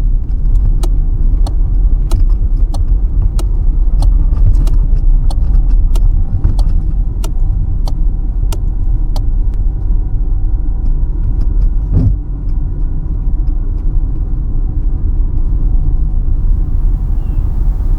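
Steady low engine and road rumble inside a moving car's cabin. For roughly the first half there is a sharp, regular ticking at about three ticks every two seconds, and one thump comes about twelve seconds in.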